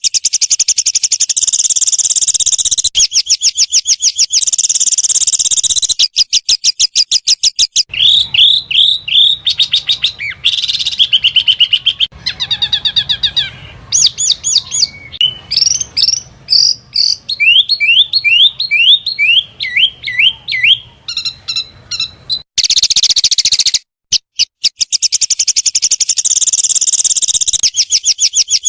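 Small songbirds' rapid-fire 'tembakan' burst calls, a spliced medley of high-pitched phrases: very fast repeated ticking notes, runs of sharp downslurred notes, rising and falling whistles and a brief buzz, each segment cutting off suddenly into the next. It is masteran material, played to train competition songbirds.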